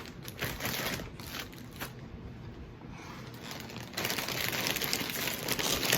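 Crinkling of a plastic chip bag being handled and opened: scattered crackles at first, then a dense, continuous crinkle from about four seconds in.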